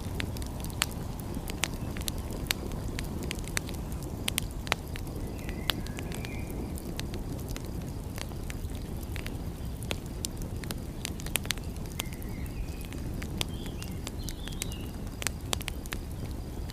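Wood fire crackling with frequent sharp pops over a steady low rumble. A few faint high chirps come in twice, around the middle and again later.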